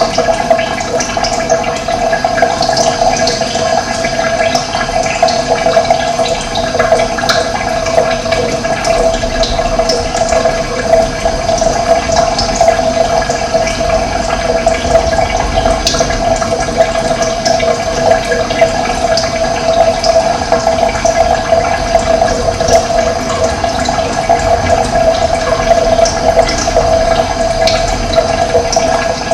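Running water flowing steadily, a loud, even rushing with a flickering texture, with occasional brief high bird chirps over it.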